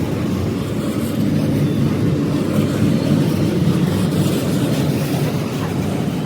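A moving vehicle running with a steady low rumble.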